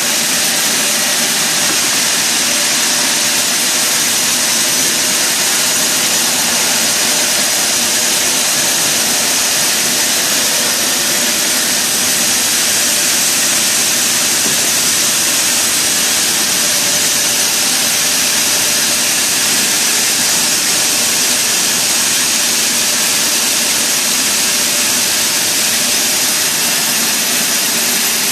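Sawmill machinery running steadily: a loud, unchanging mechanical noise with a faint steady hum.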